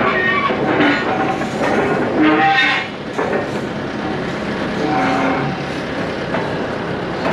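Dry steel pivot joints on heavy equipment squealing and groaning under load, several times in the first few seconds and again about five seconds in. The joints badly lack grease.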